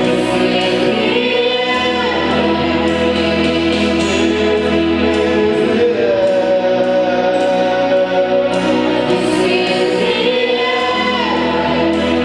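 Gospel worship music: a choir singing long held notes over accompaniment, with a bass line that shifts to a new note every few seconds.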